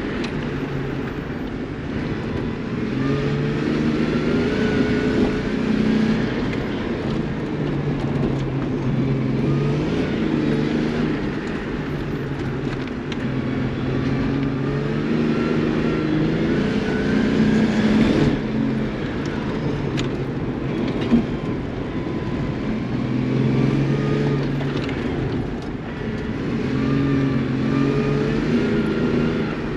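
Race car engine revving hard and easing off again and again, its pitch climbing and dropping through the run.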